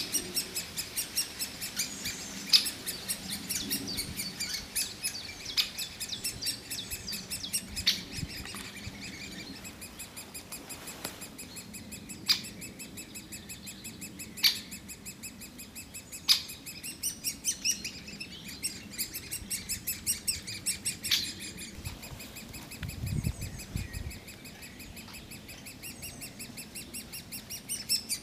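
Great spotted woodpecker nestlings begging: a rapid, even run of short high chirping calls, about four a second, kept up without a break, with a louder sharp call standing out every few seconds.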